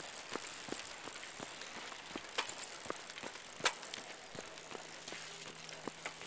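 Quick, even footsteps, about three a second, of someone jogging beside a child's bicycle, with light rattling from the bike as it rolls.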